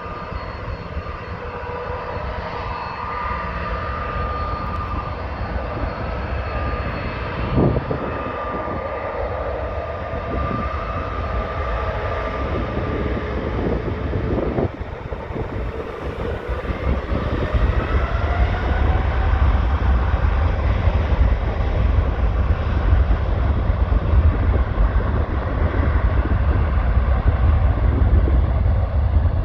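Jet airliner engines on a takeoff run, probably the Turkish Airlines Airbus A330-200: a steady jet noise with whining engine tones that slowly bend in pitch, growing louder into a deep rumble about halfway through. Two brief knocks stand out, one about a third of the way in and one about halfway.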